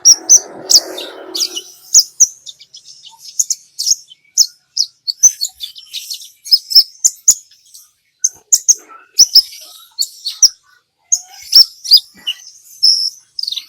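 Kolibri ninja sunbird singing a fast, high-pitched string of sharp chirps and short trills, in rapid bursts with brief pauses. A short patch of lower noise sits under the song in the first second or so.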